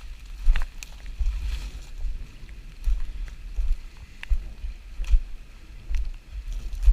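Wind buffeting the microphone in gusts, a low rumble that swells and fades every second or so, with scattered sharp ticks at irregular intervals.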